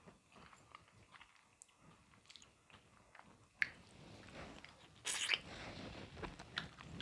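Faint close-up mukbang eating sounds: fingers picking through a seafood-boil platter, then a mouthful being bitten and chewed with small wet clicks. The chewing grows louder a little past halfway.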